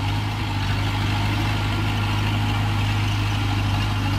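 A heavy construction machine's diesel engine idling steadily, with a strong low tone that does not change.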